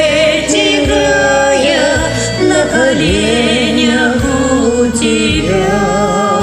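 A woman singing a slow Russian romance with wide vibrato over a karaoke backing track.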